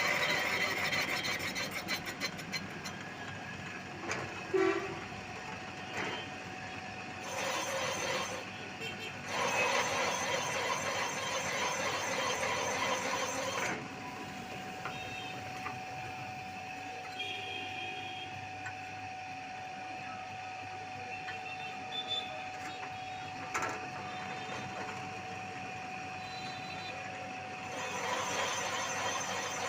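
Workshop machine running during motorcycle cylinder sleeve work: metal squealing and noisy spells, with a steady whine through the middle stretch.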